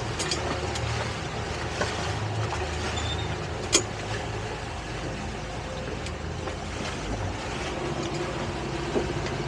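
Towboat engine running steadily under way while towing, with water and hull noise over it. A few sharp knocks, the loudest about four seconds in.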